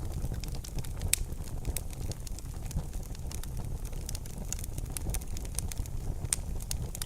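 Wood fire crackling in a fireplace: many sharp pops and snaps, one louder about a second in, over a steady low rumble of the flames.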